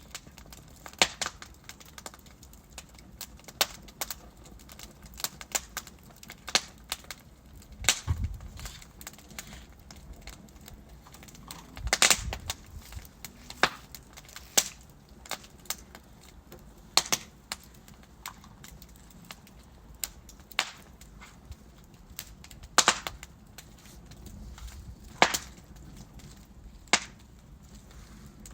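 Wood fire burning in a fireplace: logs crackling and popping at irregular intervals over a low hiss, with a few louder snaps.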